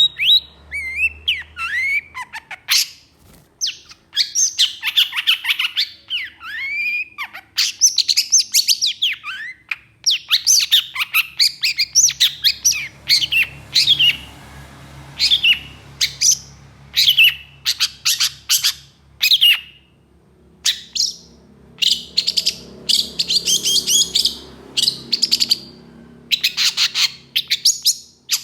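Long-tailed shrike singing a fast, loud jumble of varied chirps, sweeping whistles and harsh rasping notes, broken by short pauses.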